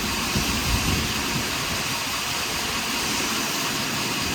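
Portable sawmill running steadily, an engine-driven saw working through a large pine log, with a few low knocks in the first second.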